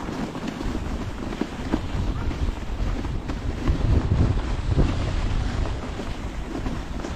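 Wind buffeting the microphone of a moving dog sled's camera, a low uneven rumble that grows louder in the middle, with scattered small knocks.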